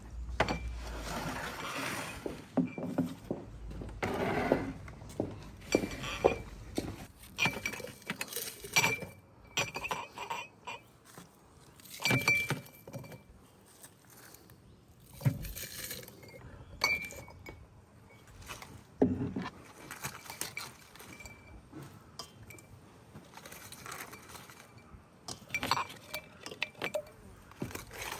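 Irregular clinks and knocks of hard kitchenware being handled, some strikes ringing briefly, with a few louder knocks about twelve, fifteen and nineteen seconds in.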